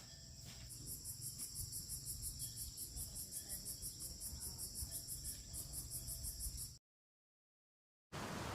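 Insects chirping: a steady high buzz with rapid, evenly spaced high pulses, about five a second. It cuts off suddenly near the end, and a steady hiss follows after a short gap of silence.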